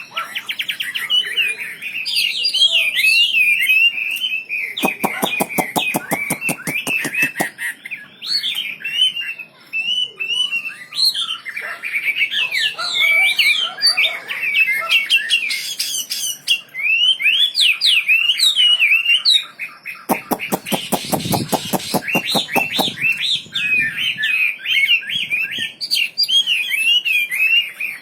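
A songbird kept for its song (Indonesian 'wambi') singing continuously in a fast, busy stream of high chirps and twitters. Twice, a few seconds in and again past the middle, a rapid rattling run of clicks joins the song.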